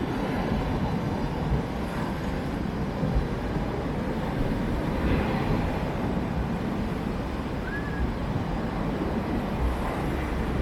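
Steady rushing noise of a rough sea surging on the shore, mixed with wind blowing across the microphone.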